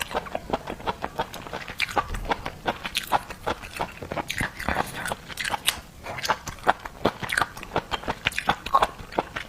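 Close-miked mouth sounds of someone biting and chewing marinated seafood: a dense, irregular run of wet smacking clicks.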